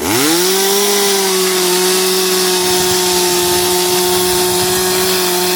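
Gasoline chainsaw throttled up sharply from idle, its pitch rising fast, then held steady at high revs.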